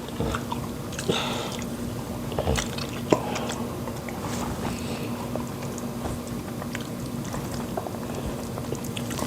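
Close-up eating sounds of fufu and pepper soup: chewing, with scattered small wet mouth clicks and smacks. A steady low hum runs underneath.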